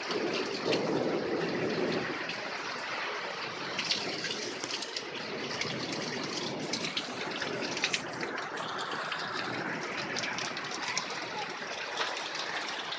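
Steady rain falling, with many short, sharp drips and splashes over the continuous hiss of the downpour.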